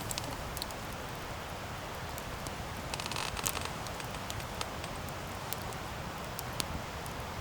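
Wood campfire burning: a steady soft hiss with sharp crackles and pops scattered through it, and a quick flurry of pops about three seconds in.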